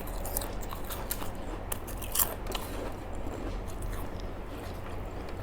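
Close-up eating sounds of someone chewing a mouthful of food, with scattered small clicks and crunches and one sharper crunch about two seconds in, over a low steady hum.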